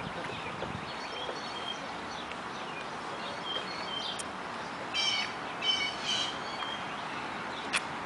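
Birds chirping in the trees over a steady outdoor background, with short high chirps throughout and three louder, harsher calls about five to six seconds in. A single sharp click comes near the end.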